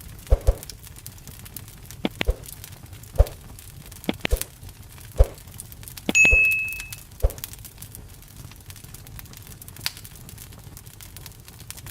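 Campfire wood burning, with irregular sharp pops and crackles every second or so over a steady low rumble of the fire. About six seconds in, one loud pop is followed by a brief high whistle.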